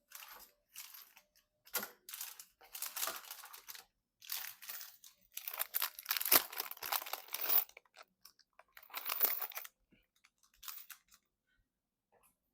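Crinkling and rustling of handled plastic in irregular bursts, loudest about six seconds in.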